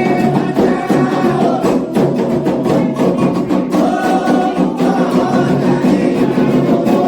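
Candomblé ritual music: a group of voices singing a chant together over a steady beat of atabaque hand drums and percussion.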